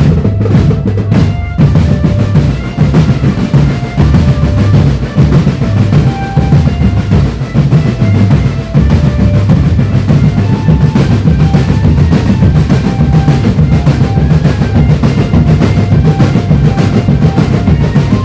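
Marching drum band playing: bass drums and snare drums keep a dense, steady beat with rolls, under a held-note melody line.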